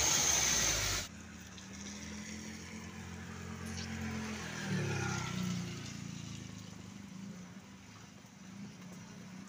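Truck passing on a wet road: loud tyre and road noise for about the first second cuts off abruptly. Then a truck engine's low note runs on, drops in pitch about five seconds in, and fades away.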